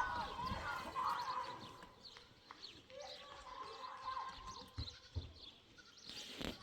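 Livestock calling: a few drawn-out cries, one at the start and another about three seconds in, with small high chirps scattered throughout.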